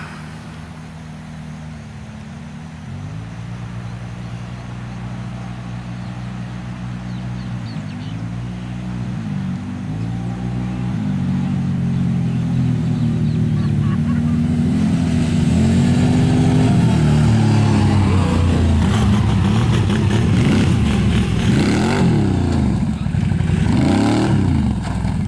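Bombardier motorbike engine running and revving repeatedly, its pitch rising and falling again and again. It grows steadily louder as the bike comes closer and is loudest through the second half.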